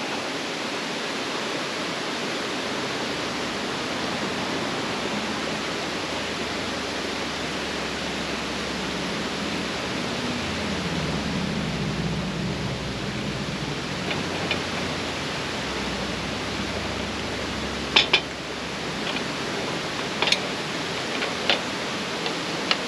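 Steady rushing noise with no pitch to it, with a few sharp clicks near the end.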